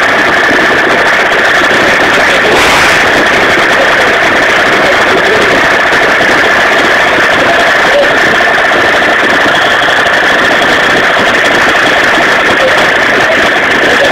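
Two-stroke 50cc moped engine with a full Pro Race tuning kit, running at a steady speed with a constant high whine and no change in revs.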